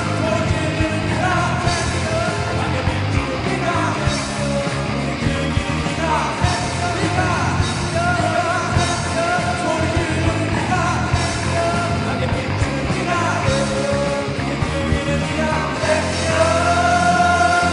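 A band playing a rock-style song with a lead singer; the singer holds a long note near the end.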